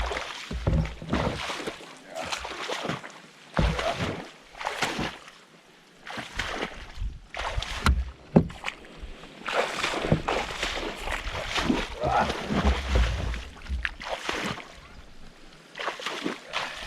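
Water sloshing and splashing in irregular bursts as people wade and move canoes through shallow, mucky water, with a sharp knock about eight seconds in.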